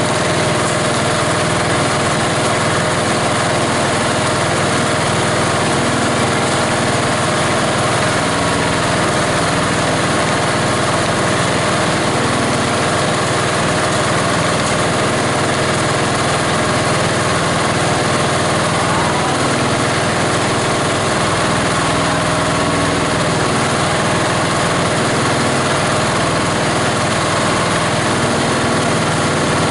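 An 18 HP diesel engine running a multi-blade plastic grinder, a loud, steady machine noise without let-up.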